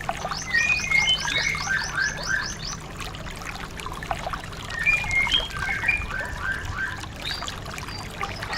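Songbird song: a quick run of high, downward-sliding chirps over lower warbled whistles, the same phrase heard twice, as in a looped training recording.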